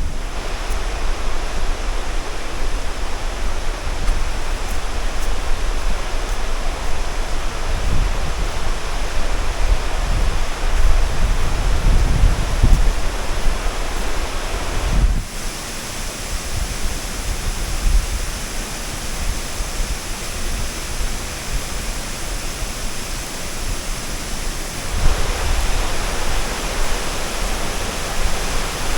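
Waterfall in heavy flow after rain: a loud, steady rush of falling water, with low rumbles of wind buffeting the microphone. The sound changes abruptly about halfway through and again near the end.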